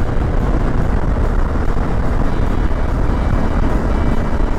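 Suzuki V-Strom 650 XT motorcycle's V-twin engine running at steady road speed under dense wind noise on the microphone.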